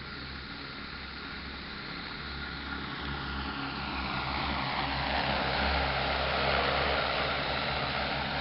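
Multirotor crop-spraying drone flying, its rotor whir growing louder over several seconds as it comes closer and passes, over a steady low hum.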